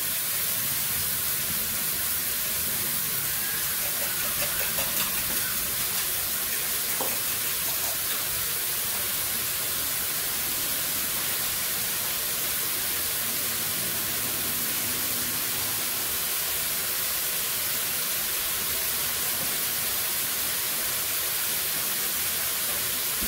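Shredded cabbage and tomatoes sizzling steadily in a wok over a gas flame: an even hiss.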